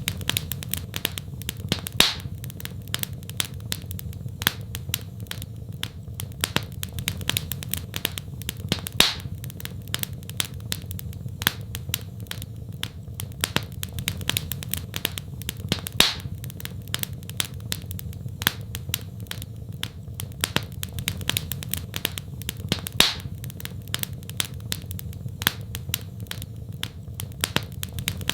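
Wood fire crackling in a fireplace: a steady run of small snaps and pops over a low steady rumble, with a louder pop about every seven seconds.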